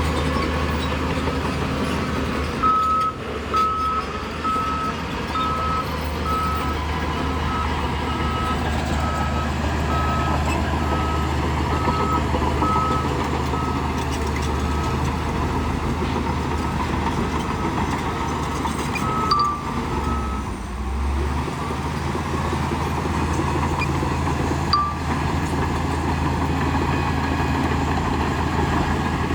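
Heavy diesel earthmoving machine running steadily, with its reversing alarm beeping about once a second for most of the first two-thirds, then stopping as the machine stops backing up.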